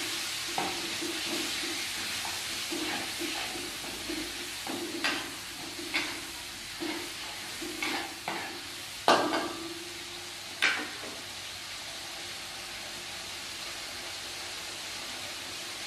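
Ground green chilies sizzling in oil in a wok while a metal spatula scrapes and taps the pan about a dozen times, with two sharp clanks of metal on the wok a little past the middle. After that the steady sizzle goes on alone.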